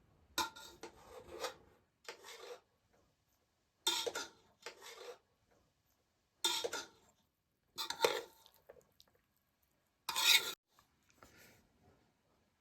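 Metal spoon scraping and clinking on metal dishes, in about eight short, unevenly spaced scrapes, as biryani is scooped.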